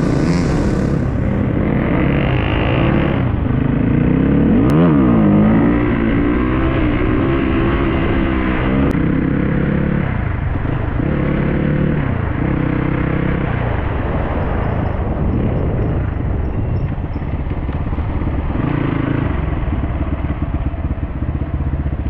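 Dirt-bike engine running while riding, its pitch rising and falling several times as the throttle opens and closes through the gears.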